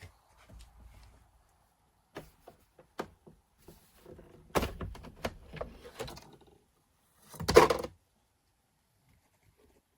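Hard objects being handled: a series of light clicks and knocks, then one louder thunk about seven and a half seconds in.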